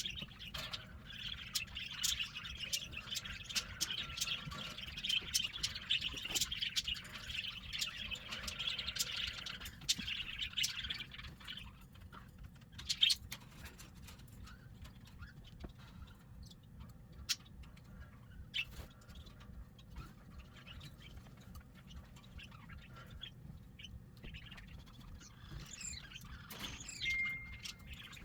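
Cockatiels chirping and calling, a dense stretch of chirps for the first ten seconds or so, then thinner calls with a brief whistled note near the end. Scattered sharp clicks and knocks run through it.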